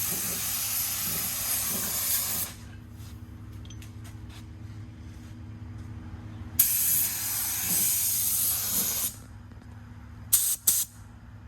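Primer being sprayed onto a truck cab in bursts of hiss: one long pass at the start, another of about two and a half seconds in the middle, and two short blasts near the end. A steady low hum runs underneath.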